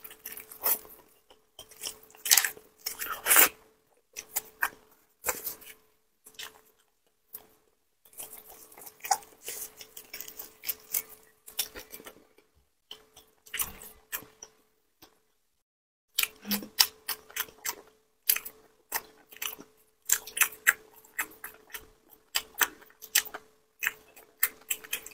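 Close-miked chewing and biting on saucy meat off the bone: a dense run of short, wet, clicky mouth sounds, with a brief break about two-thirds of the way through.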